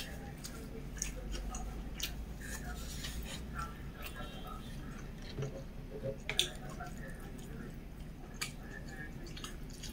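Close-miked chewing and mouth sounds from a person eating: scattered soft wet clicks and smacks, with a couple of sharper clicks about six seconds in.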